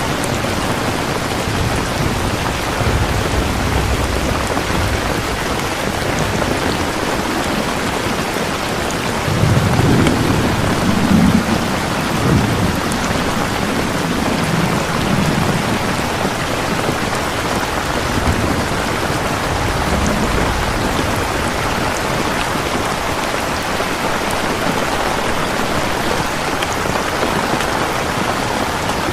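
Steady heavy rain falling, with a low rumble of thunder about ten seconds in and fainter rumbles later on.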